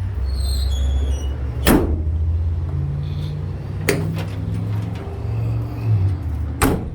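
Low steady drone of a truck engine running, with three sharp knocks about two seconds apart. A second, slightly higher motor hum joins for a few seconds in the middle and shifts in pitch.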